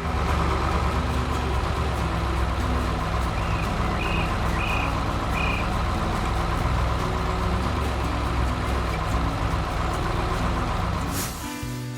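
Heavy truck engine running steadily, a dense low rumble, with four short high beeps a few seconds in. The engine dips near the end.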